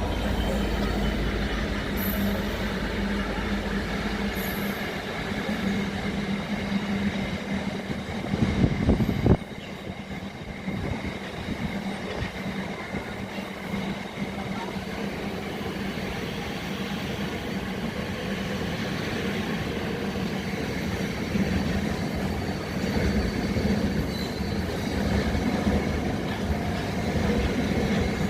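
Train running past on the line: a steady engine drone over rolling wheel and rail noise, with a heavy low rumble in the first few seconds and a short loud burst about eight to nine seconds in.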